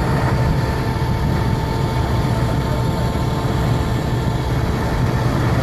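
Concrete pump truck's engine running steadily, a low drone with a steady higher hum on top.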